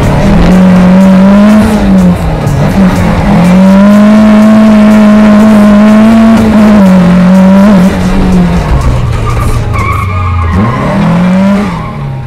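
Lada 2107 rally car's four-cylinder engine heard from inside the cabin, held at high revs under hard driving, with brief dips at gear changes and a drop and rise in pitch near the end. Tyres squeal briefly near the end.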